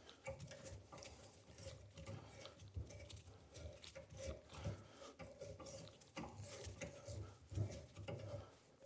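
Hand reamer being turned back and forth in a door-hinge hole: faint, irregular metal-on-metal scraping and small clicks.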